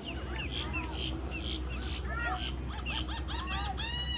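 A flock of birds calling outdoors: many short, arched, honking calls overlapping, growing busier toward the end.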